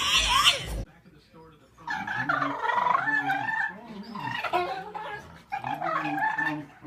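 A dog whining and howling in a string of drawn-out, wavering vocalizations that start about two seconds in, almost like talking. Just before, a loud high-pitched scream cuts off under a second in.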